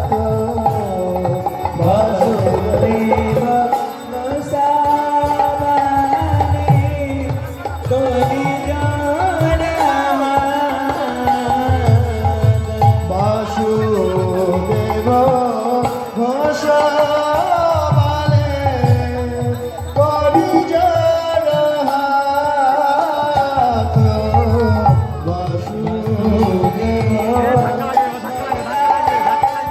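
Devotional singing with a hand drum keeping a steady beat, and the melody gliding up and down.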